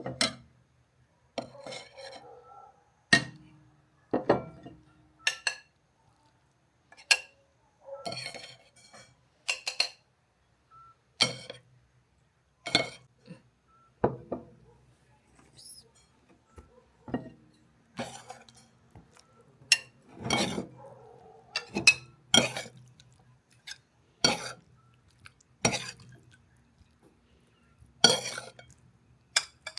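Dishes and cutlery clinking: a string of sharp, irregular clinks and knocks, roughly one every second or two.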